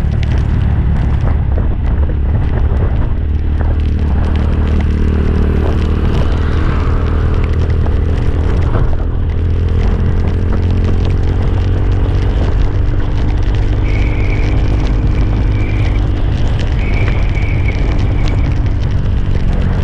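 Motorcycle riding along: wind rumbling hard on the microphone over a steadily running engine. Two short, high horn-like tones sound near the end.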